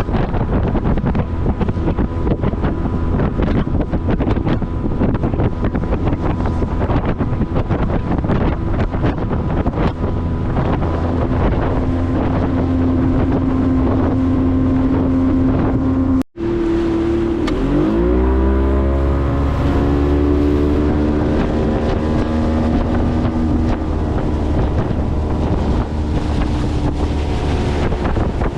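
Motorboat engine running under way, with wind on the microphone. The sound drops out briefly a little past the middle; after that the engine note shifts in pitch and then slowly falls.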